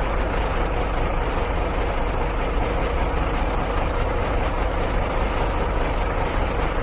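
A vehicle engine, most likely a heavy one, running steadily with a constant low drone and no revving.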